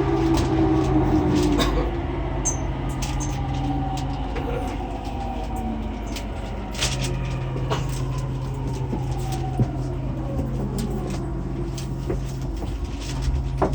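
E231-800 series commuter train standing at a station platform with its doors open: a steady low hum from its onboard equipment, which drops out for a couple of seconds partway through, with scattered clicks and knocks of platform and passenger movement.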